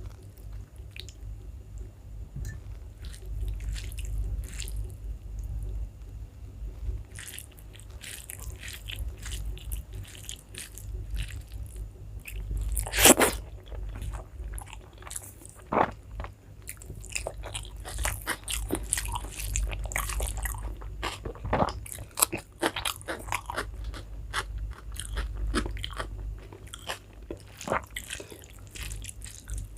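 Close-up mouth sounds of a person eating rice and curry: chewing and biting with many short sharp clicks and smacks, one much louder about 13 seconds in.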